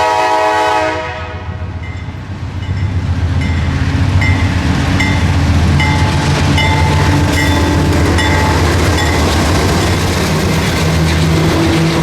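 Diesel locomotive horn sounding a multi-note chord that cuts off about a second in. It is followed by the heavy engine rumble of the passing locomotive, with a regular clicking of wheels over the rail joints.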